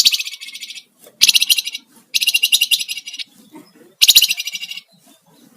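Javan fulvetta (flamboyan, wergan jawa) calling in fast rattling trills, the 'ngebren' call: four high, buzzy bursts of about a second each, with short gaps between them.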